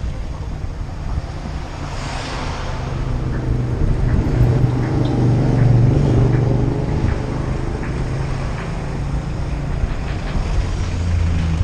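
A motor vehicle's engine running with a steady low hum that grows louder toward the middle and then eases off.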